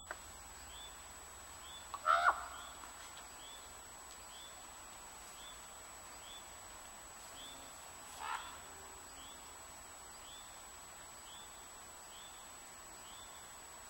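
Outdoor ambience with a bird repeating a short, high, falling chirp about every half second. Two brief, louder animal calls stand out, one about two seconds in and one at about eight seconds.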